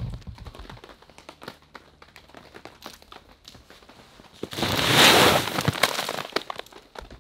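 Greenhouse plastic film crinkling and crackling with scattered clicks, then a loud rush of snow sliding off the roof about four and a half seconds in, lasting about two seconds.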